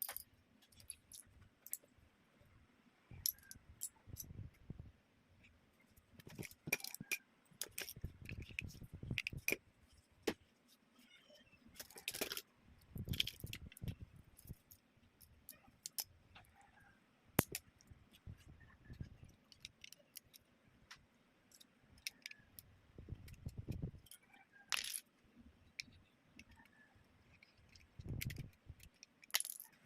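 Plastic toy bricks being handled and pressed together: irregular clicks and rattles of small pieces, in short clusters with pauses between.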